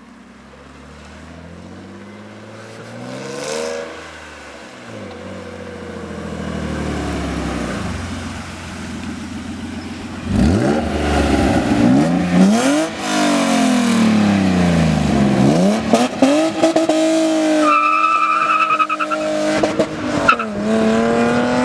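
BMW E36 325i's 2.5-litre straight-six, fitted with Supersprint headers, revving up and dropping back again and again through its exhaust. It gets louder about halfway through, with quicker, sharper rev sweeps.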